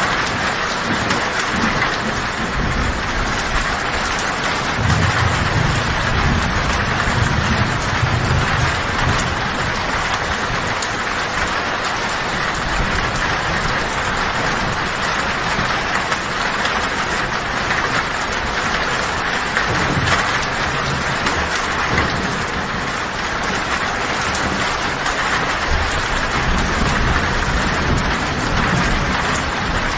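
Heavy rain on a tin roof, a steady dense patter, with low thunder rumbling underneath that swells several times, most strongly about five to nine seconds in.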